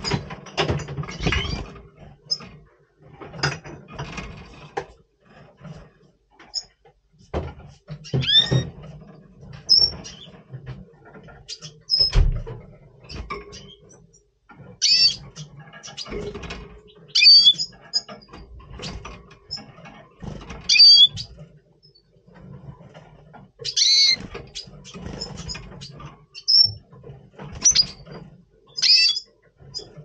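Red siskin calling in breeding condition: short high chirps and twittering phrases with quick pitch sweeps, scattered irregularly, mixed with soft knocks and flutters as the bird moves about the cage.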